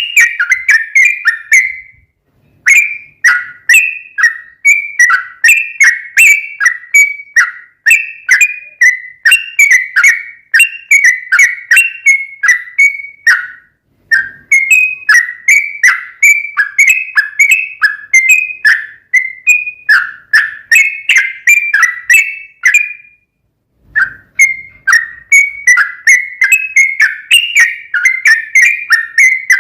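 Yellow-vented bulbul (trucukan) singing its long, rapid chattering song: quick runs of short, down-slurred whistled notes, about four or five a second, in long phrases with brief pauses, used as a lure song to make other bulbuls answer.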